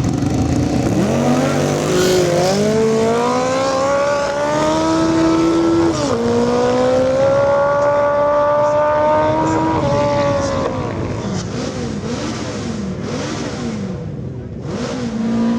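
Classic sprint motorcycle accelerating hard, its engine note climbing and then dropping at each of several gear changes before fading into the distance. Another engine's steady note comes in near the end.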